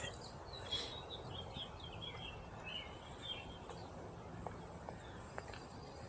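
Small birds chirping faintly in quick, short notes over a low outdoor hiss, the chirps thinning out after about three seconds; a few faint clicks later on.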